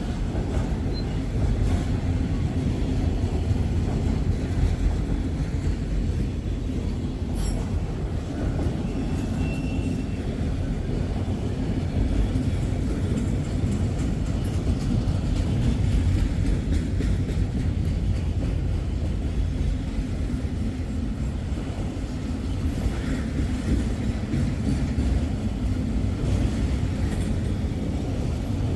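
Freight train cars rolling past at close range: a steady low rumble of steel wheels on rail with rapid clicking. Faint high-pitched wheel squeals come in near the end.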